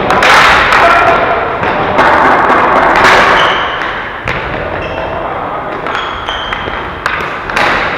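Ball hockey play: repeated sharp knocks and thuds of sticks hitting the ball and the ball and players hitting the boards, over general game noise.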